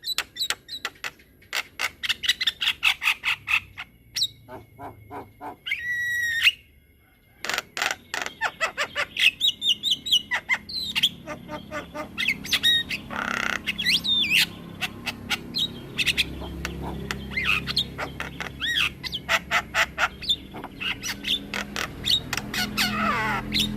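Javan myna (jalak kebo) singing a long, varied song: fast runs of sharp chattering notes mixed with squawks and gliding whistles, with a short pause about seven seconds in. A low steady hum runs under the second half.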